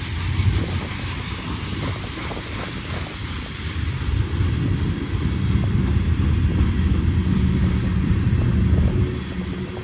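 Freight train rolling past: a steady low rumble that swells from about four seconds in and eases near the end, with faint scattered clicks.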